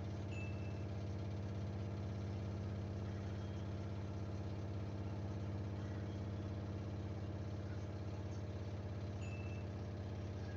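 Samsung washing machine in its high-speed final spin with a load of bedding: a steady, even hum of motor and drum that holds constant without speeding up or slowing down.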